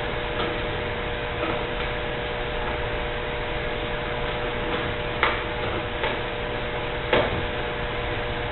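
A few sharp clicks, the loudest about five and seven seconds in, as parts and tools are handled while taking apart a dishwasher, over a steady hum.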